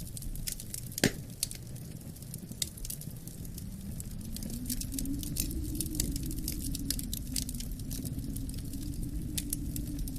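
Wood fire crackling, with frequent sharp pops and a loud pop about a second in, over a low steady wind rush that swells from about four seconds in.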